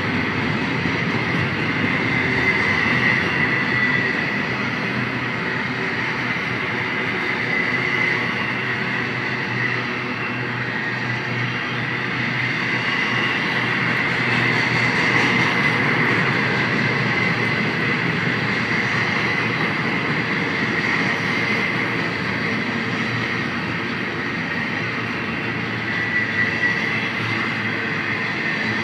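Freight train of double-stack, trailer and flat cars rolling steadily past, a continuous rumble of wheels on rail with a steady high tone running through it.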